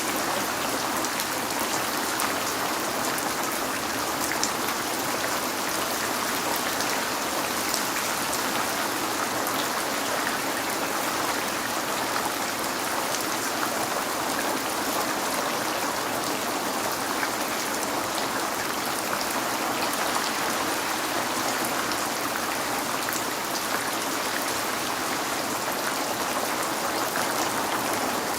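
Steady rain falling and pattering on a window pane, an even hiss with fine scattered drop ticks.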